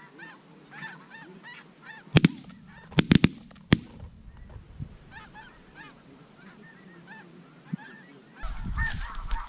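Snow geese calling in repeated high yelping honks, broken by about six shotgun shots fired in quick succession between about two and four seconds in. A low rumble starts near the end.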